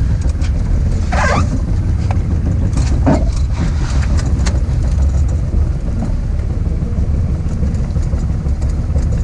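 Small 2 hp two-stroke outboard motor running steadily, a dense low rumble mixed with wind buffeting the microphone, with a few brief scrapes or knocks.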